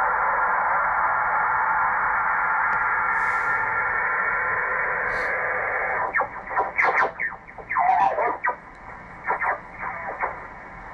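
Ham radio receiver on the 20-metre band giving a steady, band-limited hiss of static for about six seconds, then choppy, broken bursts of signal.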